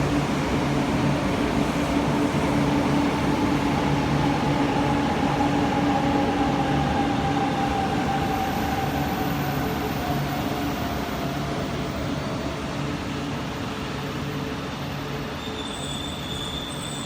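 JR East E4 series MAX Shinkansen train running on the line: steady rail and running noise, with a whine that slowly falls in pitch as the sound gradually fades.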